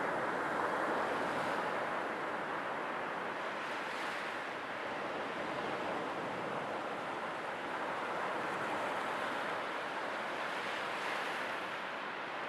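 Sea waves washing on a shore: a continuous rushing surf that swells and eases gently, with faint crests about one, four and eleven seconds in.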